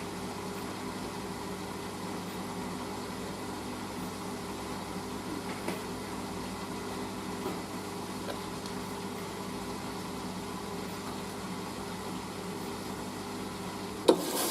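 Hoover SIX washing machine humming steadily, most likely its drain pump emptying the drum before the final rinse. Near the end a sharp click, then a rushing hiss as water starts filling for the rinse.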